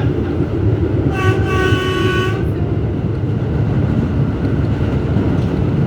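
R211S subway train running along the track with a steady low rumble, its horn sounding once about a second in and holding for about a second and a half.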